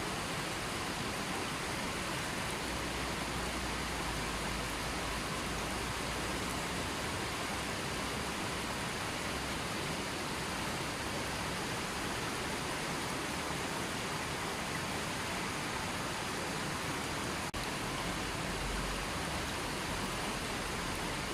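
River water flowing, a steady even sound of running water, with a momentary dropout about three-quarters of the way through.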